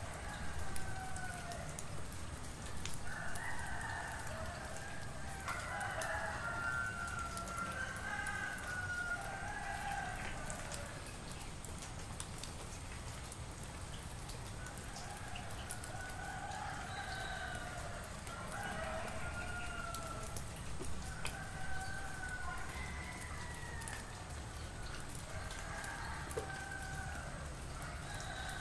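Several roosters crowing, their calls overlapping and following one another in two long bouts, over a steady background of rain.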